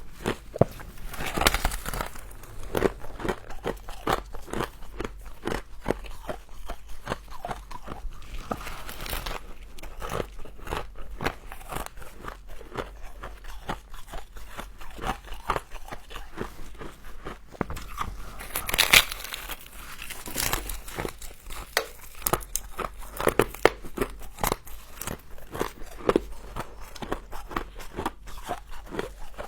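Close-miked biting and chewing of frozen humidifier frost: a continuous run of crunches and crackles, with a few louder bites standing out.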